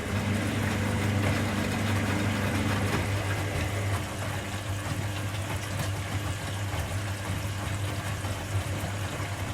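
Washing machines running mid-programme: a steady motor hum under the noise of water and the turning drum, louder for about the first four seconds and then easing slightly.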